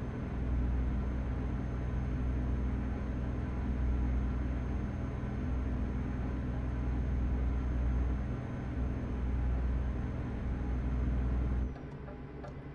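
Truck engine and road noise heard inside the cab while driving: a steady low drone with a faint high whine. Near the end the sound drops off suddenly and becomes much quieter.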